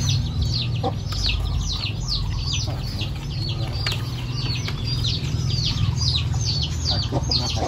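Birds chirping: a rapid, unbroken run of high, falling chirps, several a second, over a steady low hum.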